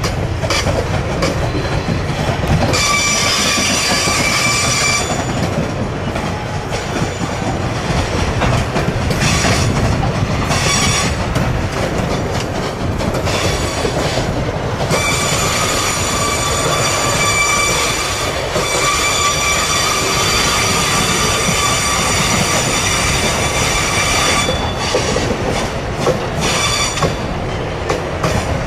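Freight train rolling past with a low rumble and wheels clicking over the rail joints. A high, steady wheel squeal comes in briefly about three seconds in, and again for several seconds in the middle.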